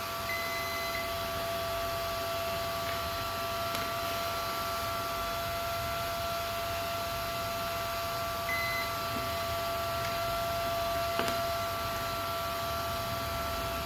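Steady electronic whine made of several held tones over a hiss, with a short high beep near the start and another about two-thirds of the way through, and a couple of faint clicks.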